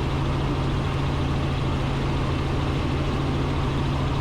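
Robinson R44 Raven II helicopter in cruise flight, heard from the cockpit: a steady drone of engine and rotors with a strong low hum.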